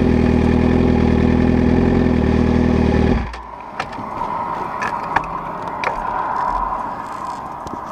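2011 Suzuki GSX-R750's inline-four idling through an unbaffled M4 GP slip-on exhaust with the catalytic converter deleted, then shut off about three seconds in. A few faint clicks follow.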